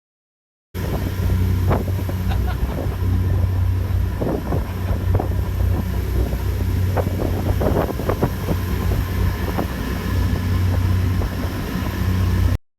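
Ferry's engines running with a steady low rumble, with wind gusting on the microphone. The sound starts and stops abruptly.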